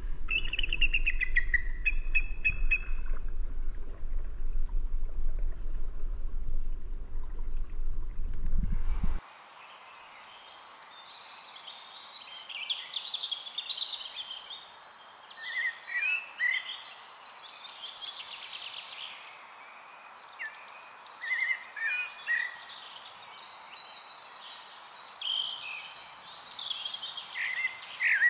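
A heavy low rumble with bird chirps for about nine seconds, then the rumble cuts off abruptly and several birds keep singing and chirping.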